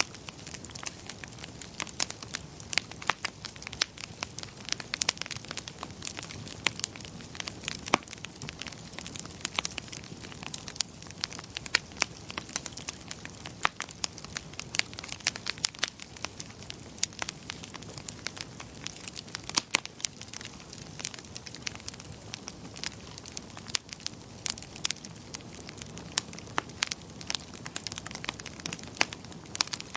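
Wood fire crackling: many sharp, irregular pops and snaps over a soft, steady rush of burning.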